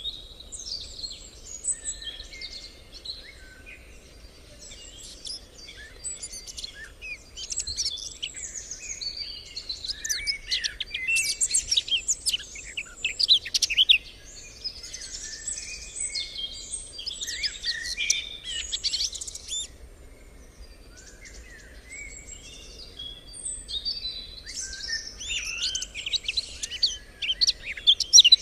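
Many small songbirds singing and chirping at once, a dense chorus of overlapping high twittering phrases that swells and thins, busiest in the middle and again near the end.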